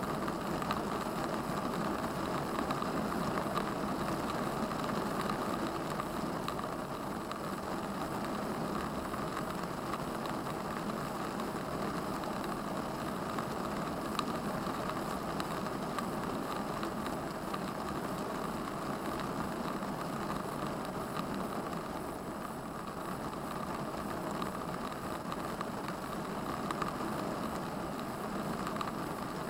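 Steady car engine and cabin noise, running evenly with no change.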